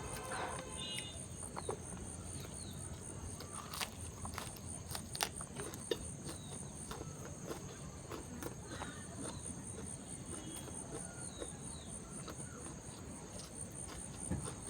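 Close-up eating sounds: chewing, with scattered small mouth clicks and smacks. Behind them runs a steady, high, evenly pulsing chirring of crickets.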